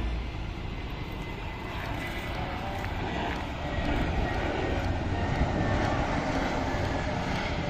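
Engine roar of a landing airplane passing near the runway, growing louder about halfway through.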